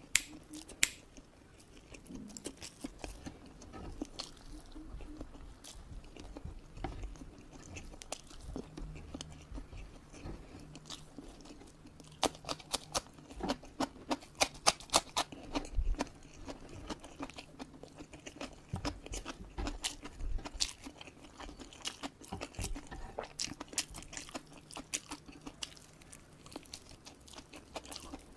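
Close-miked eating sounds: chewing rice and chicken with wet mouth clicks. About halfway through comes a run of sharp crunches as a raw cucumber stick is bitten and chewed.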